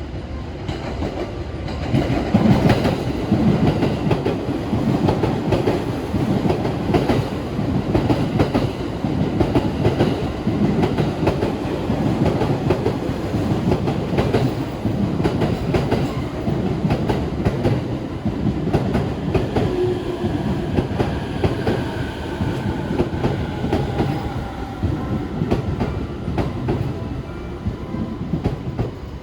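Container freight train running past, its wagons' wheels clattering over rail joints in a steady, continuous rhythm.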